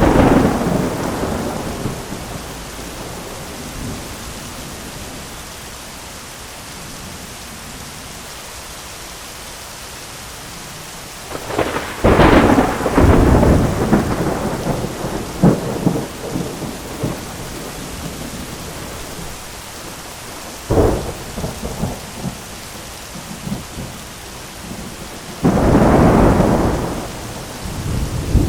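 Heavy rain falling steadily on an umbrella, with thunder. A peal at the start fades over about two seconds. A long crackling burst of thunder comes a little before halfway, a sharp crack about three-quarters of the way in, and another rolling peal near the end.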